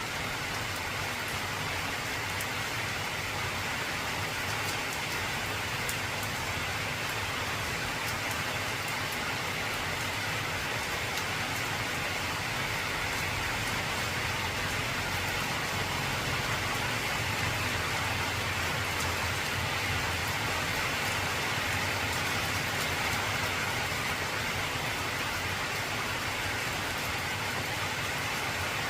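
Heavy rain falling steadily on an old corrugated tin roof: a dense, even hiss with the patter of drops on the metal.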